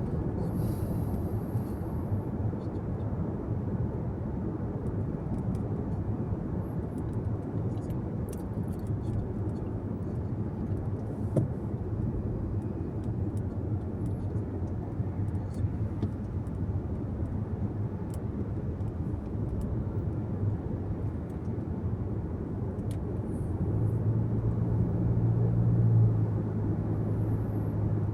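Car interior noise while driving: a steady low rumble of tyres and engine. About three-quarters of the way through, the engine hum grows louder for a few seconds, then eases.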